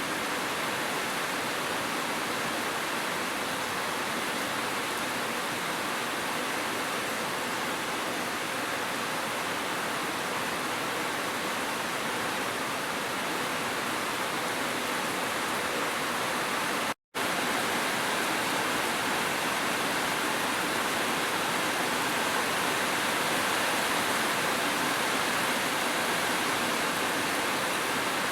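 Steady rush of a waterfall mixed with gentle rain, even throughout. It cuts out completely for an instant about two-thirds of the way through, then resumes unchanged.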